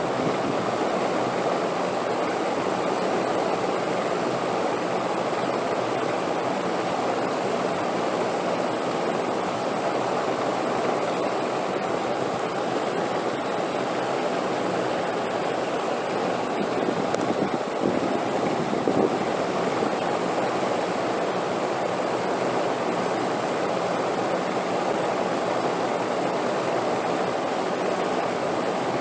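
Steady rushing wind, an even noise that swells a little about two-thirds of the way through, with a faint steady high whine above it.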